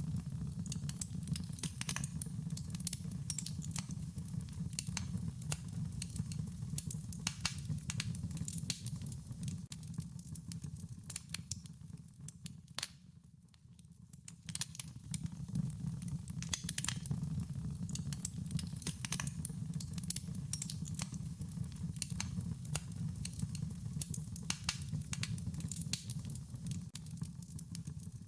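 Wood fire crackling: frequent sharp, irregular pops and snaps over a low steady rumble, briefly quieter about halfway through.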